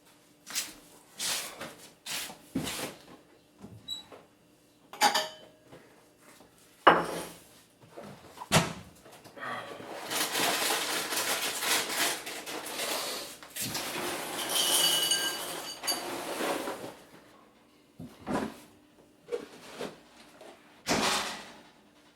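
Household clatter: a series of short rustles and knocks, two sharp knocks about seven and eight and a half seconds in, then a longer stretch of rustling and scraping lasting several seconds.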